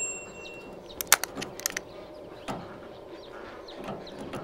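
Small birds chirping over and over in the background. A quick clatter of sharp knocks comes about a second in, then a single knock a second later.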